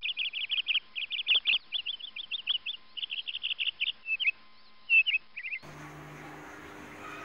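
A small bird chirping in quick runs of short high notes. The chirps stop suddenly about five and a half seconds in, and a steady low hum with a light hiss follows.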